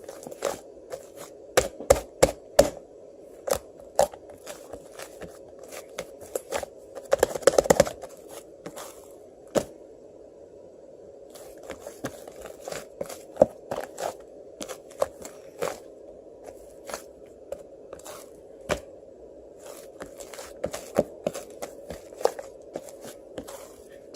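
Beaded ice cream being handled and eaten: irregular sharp clicks, crackles and crinkles, with a quick cluster of them about seven seconds in.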